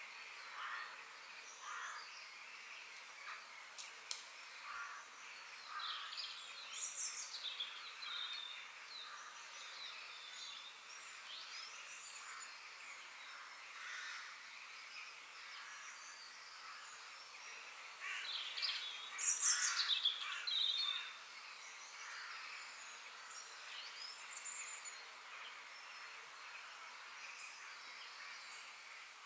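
Forest birds singing and chirping over a steady background hiss, several overlapping songs of short whistled phrases, with a louder burst of song a little past the middle.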